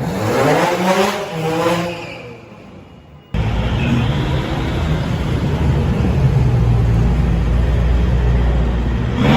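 A car engine revving hard, its pitch climbing and then falling away over about two seconds. About three seconds in, a loud, steady, low rumble with a haze of noise comes in abruptly.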